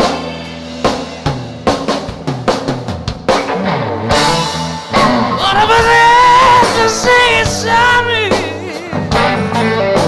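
Live rock band playing an instrumental break: drum hits and a falling bass line, then from about five seconds in a lead electric guitar takes over, bending and holding notes with vibrato.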